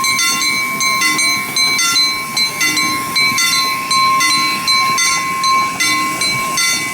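Miniature live-steam train running, with a regular beat of short ringing clicks about twice a second and a steady high tone under them.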